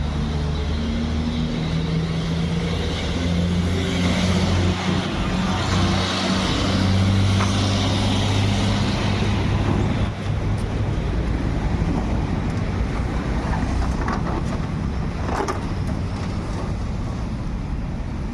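Motor vehicle driving: a steady engine hum under road noise, the engine note shifting during the first half.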